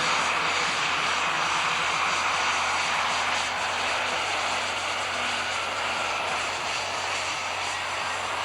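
Super stock pulling tractor's engine running hard: a steady, dense engine noise with a faint high whine, easing off slightly toward the end.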